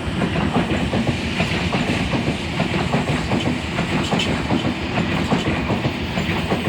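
Oscar H-set electric multiple unit passing through a station: a steady rush of running noise with rapid, irregular clicking of wheels over the rail joints.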